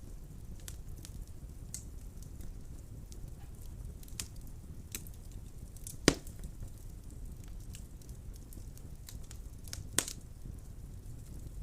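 Wood fire burning in a fireplace: a steady low rumble of flames with scattered light crackles, and two sharp loud pops from the burning logs, about six seconds in and again near the end.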